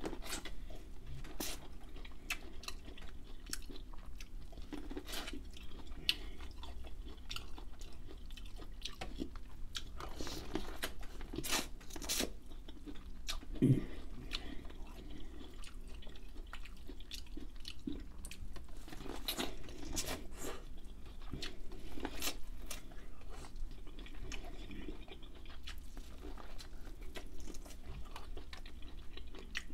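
Close-miked chewing and biting of seasoned corn on the cob: many short, crisp mouth clicks and crunches throughout, with one louder dull knock about halfway through.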